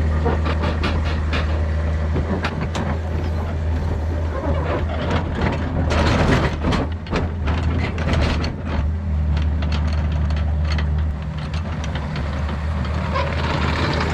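Diesel excavator engine running steadily under load, with a run of clanks and scrapes from the bucket digging into soil, thickest about six to seven seconds in.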